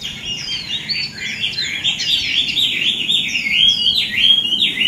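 Birds chirping in a dense chorus of quick, overlapping calls, many sliding down in pitch.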